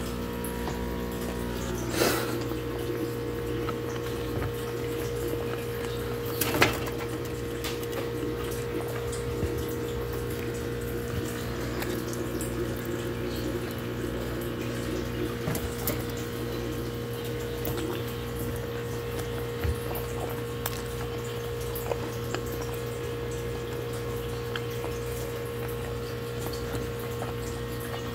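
Close-up chewing and wet mouth sounds of a man eating pizza, over a steady electrical hum, with a couple of knocks in the first seven seconds.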